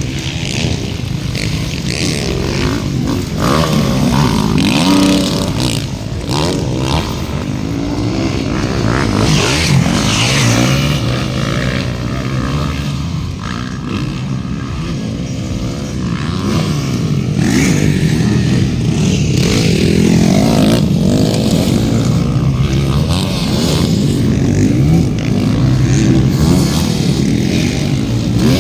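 Several off-road motocross motorcycles racing, their engines revving up and down as they pass and accelerate.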